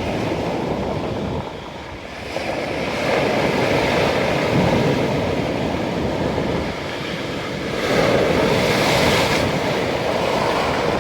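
Black Sea waves breaking and washing on the shore, a continuous rush of surf that swells into two louder surges, about a third of the way in and again near three-quarters of the way through.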